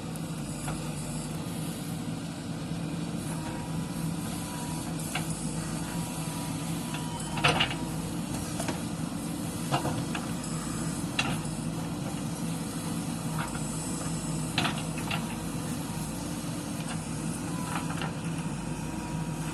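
JCB 3DX backhoe loader's diesel engine running steadily at working revs, with several sharp knocks from the digging and loading spread through it.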